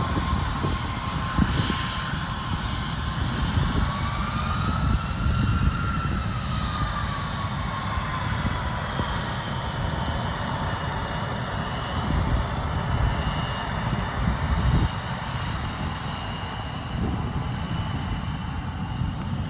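Airliner engines running, with a steady whine that rises in pitch about four seconds in and settles back down a few seconds later, over a heavy low rumble.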